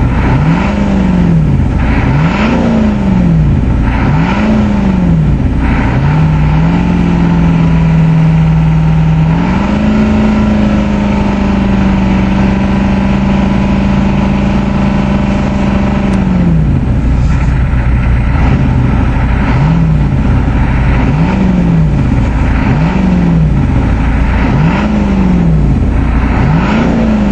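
Ford 6.9L International IDI V8 diesel revved in short repeated blips, then held at a raised speed for about ten seconds before dropping back, then blipped again. It is clattery, with its cold-start timing advance stuck on.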